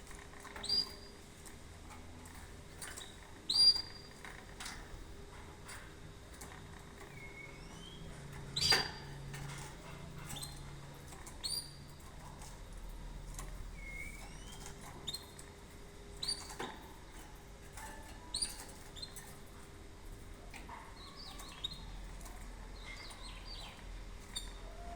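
Canary giving short, sharp rising chirps every few seconds, with a few softer notes and faint clicks in between.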